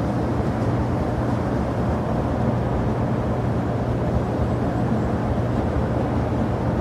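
Airliner jet engines running steadily: a constant low drone with a noisy hiss above it, holding level without rising or falling.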